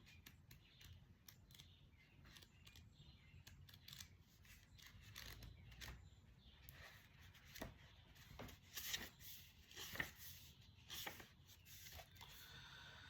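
Faint paper rustling and light clicks, scattered irregularly over near silence, as tarot cards and a guidebook are handled.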